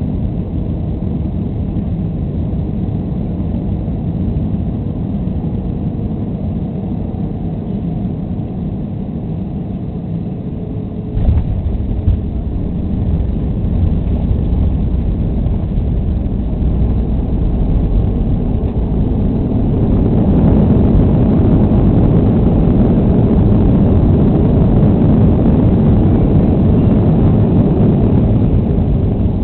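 Boeing 737-300 cabin noise through touchdown: steady airflow and engine rush, a sudden thump about eleven seconds in as the main gear touches down, then the rush builds and grows loud from about twenty seconds in with the CFM56 engines in reverse thrust on the landing roll, easing near the end.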